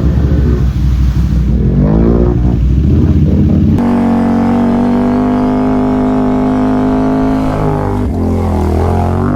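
Off-road vehicle engine revving, its pitch dipping and climbing, then held steady at high throttle for several seconds before dipping and climbing again near the end.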